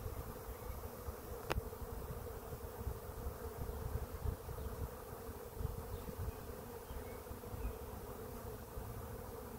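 A swarm of honey bees buzzing steadily in flight, a dense even hum with a low, uneven rumble underneath. A single sharp click comes about a second and a half in.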